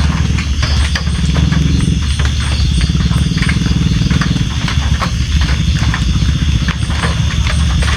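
Steady rain, with a constant low rumble under many scattered sharp taps of drops.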